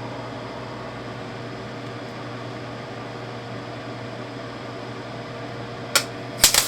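Steady electrical hum with fan-like noise, then a sharp electrical snap about six seconds in and a quick burst of loud crackling pops near the end: a short circuit arcing through the test setup, which burns through an alligator clip lead.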